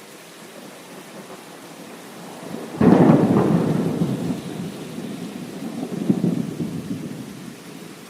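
Steady rain with a sudden thunderclap nearly three seconds in. Its low rumble rolls on, swells again about three seconds later, then fades back under the rain.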